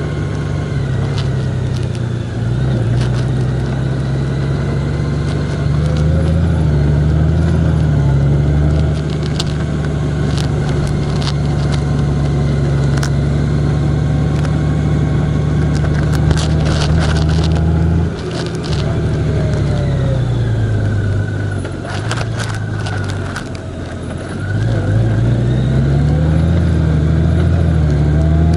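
Road vehicle's engine running while under way, its note holding steady, then falling off about two-thirds of the way through and climbing again near the end as it picks up speed. Scattered sharp clicks and rattles.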